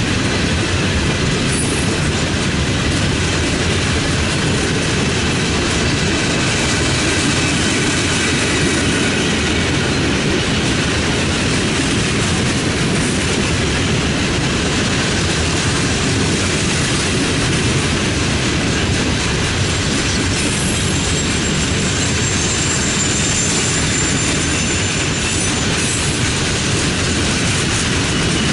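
Loaded coal hopper cars of a freight train rolling past: a steady rumble and clickety-clack of steel wheels over the rail joints. A faint high wheel squeal comes through now and then, more in the later part.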